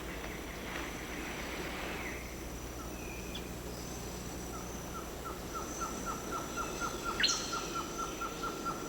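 Tropical rain forest ambience: a steady high insect drone, with a fast run of short, evenly repeated animal calls, about four a second, starting about halfway through, and a sharp chirp near the end.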